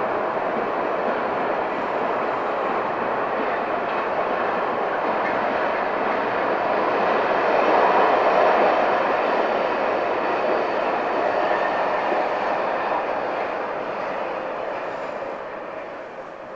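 Railway wagons rolling across a stone viaduct: a steady rumble of wheels on rail that grows loudest about halfway through and fades near the end as the train draws away.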